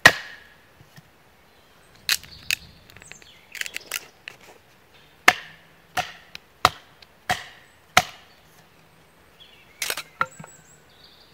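Sharp wooden knocks as a small neck knife is driven into a piece of dead, dry chestnut wood to split it along its drying crack. There are about a dozen strikes, with a run of five evenly spaced ones in the middle and a quick cluster near the end.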